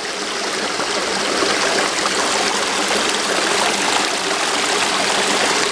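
Water of a shallow stream and small waterfall rushing over rocks in a steady rush, growing louder over about the first second and a half and then holding steady.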